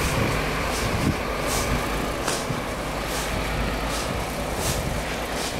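Footsteps crunching through deep snow, about one step every three-quarters of a second, over a steady low rumble.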